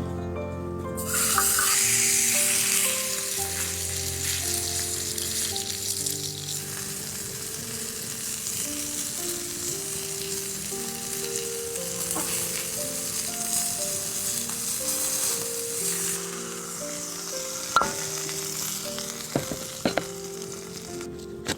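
Food sizzling as it fries in a pan, a dense hiss that thins out in the last few seconds, with a few sharp clicks near the end. Background music with slow stepping notes runs underneath.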